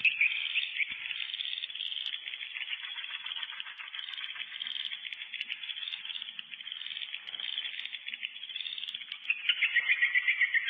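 Recorded swiftlet calls: a dense, rapid chittering twitter. About nine seconds in, a louder, more evenly pulsed call takes over.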